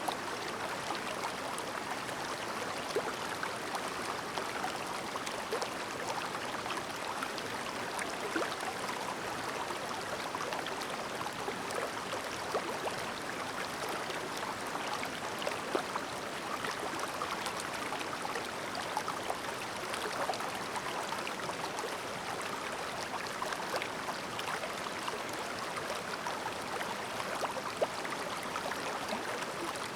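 Shallow, clear mountain stream babbling steadily over stones, with small splashes and droplet ticks scattered through the flow.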